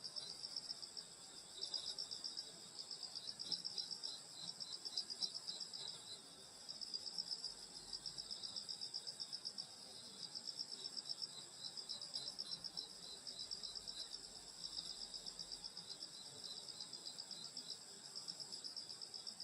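Summer night grass insects chirping: a steady high trill with pulsing chirp phrases of a second or two, broken by short pauses, laid over it.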